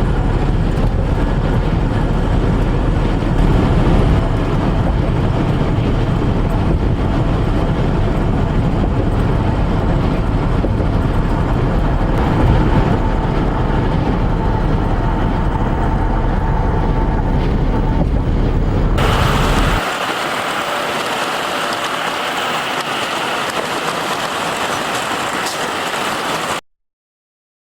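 Steady road and wind noise inside a truck cab while driving on a highway in strong gusty wind. About twenty seconds in, the low rumble drops away, leaving a thinner hiss that cuts off suddenly near the end.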